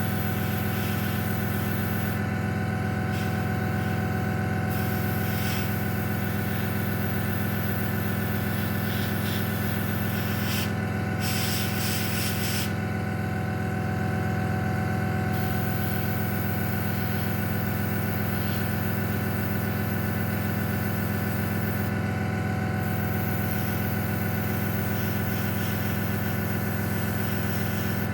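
Airbrush spraying paint, its air hiss starting and stopping several times as the trigger is worked, over the steady hum of a small motor running throughout.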